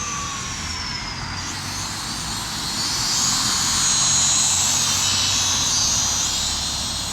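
Small electric drone's propellers whining in flight, the pitch sliding down over the first second, then rising and growing louder from about three seconds in, and easing off near the end.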